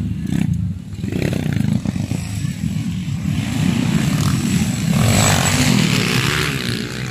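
Motocross dirt bike engines running, with a louder stretch about five seconds in.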